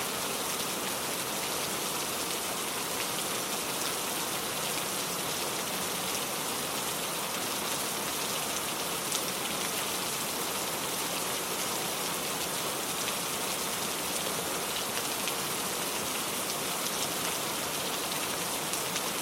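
Steady heavy rain falling and pattering on surfaces, with fine drop ticks scattered through a dense hiss.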